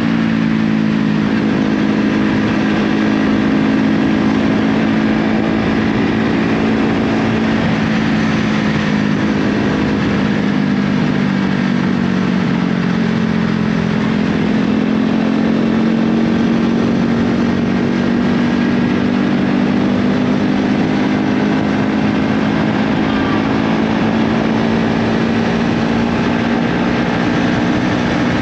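KTM motorcycle engine with an Akrapovic aftermarket exhaust, running at a steady speed, its pitch drifting slightly up and down.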